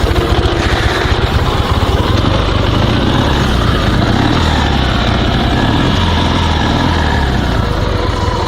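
Dnepr 16 sidecar motorcycle's 650cc flat-twin engine running steadily just after being restarted from a stall; the engine is cold and, in the rider's view, may need warming up.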